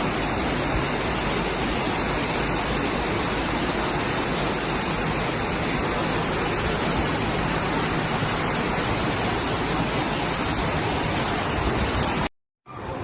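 Loud, steady rush of water that cuts off abruptly about twelve seconds in.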